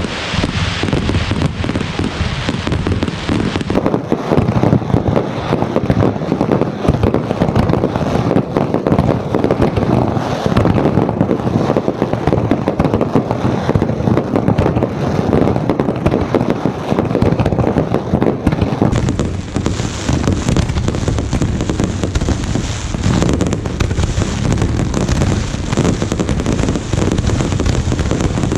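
Fireworks display in a dense, continuous barrage: rapid overlapping bangs and crackling with no pauses.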